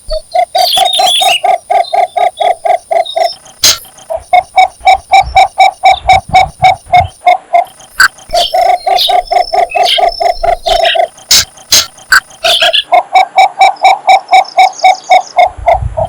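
Cinnamon bittern giving its mate-seeking advertising call: long series of evenly paced low notes, about five a second, in four runs with short pauses between.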